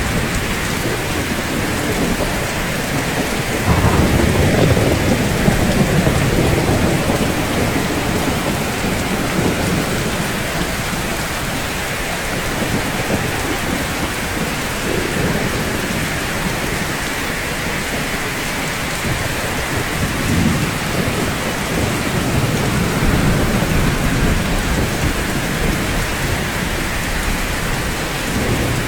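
Steady rainfall on rooftops. Low rolls of thunder come in suddenly about four seconds in and again more faintly about twenty seconds in.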